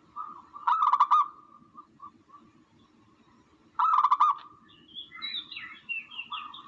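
Recorded bird calls of the kind played to lure birds for hunting: two short, rapid rattling calls about three seconds apart, then thinner, higher chirping twitters near the end.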